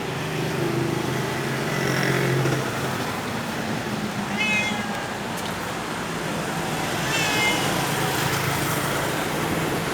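An injured stray cat meowing twice, short calls falling in pitch, about midway and again a few seconds later, over a steady low hum.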